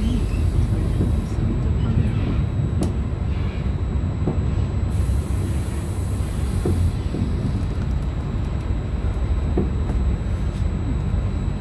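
Trenitalia regional train heard from inside the carriage while moving: a steady low rumble from the running gear, with a few sharp clacks of the wheels on the track.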